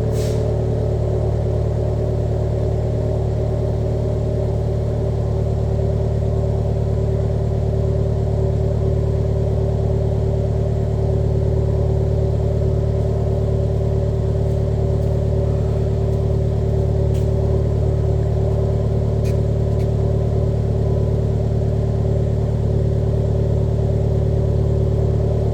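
Vauxhall Corsa VXR Nurburgring Edition's 1.6-litre turbocharged four-cylinder idling steadily on a cold start through a new stainless steel cat-back exhaust, warming up with no revs.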